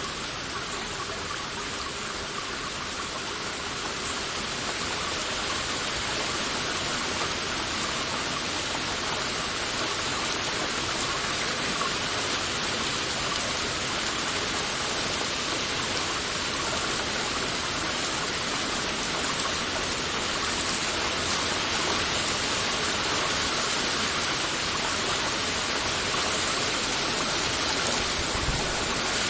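Heavy rain falling steadily, a dense even hiss that builds slightly louder over the stretch.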